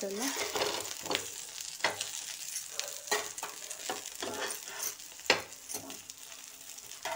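Battered eggplant slices shallow-frying in oil on a flat pan, sizzling steadily, with the clicks and scrapes of a steel spatula turning them over several times; the sharpest knock comes about five seconds in.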